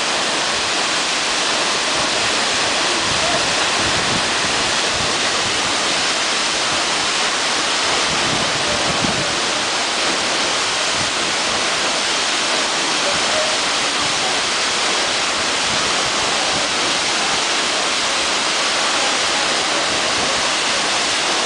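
Steady rush of a waterfall's falling water, an even, unbroken noise.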